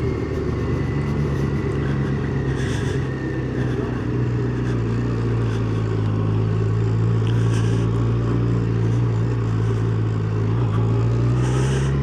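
Yamaha FZ1's inline-four engine running at a steady cruise, its note holding even and then rising slightly in pitch near the end as the bike picks up speed.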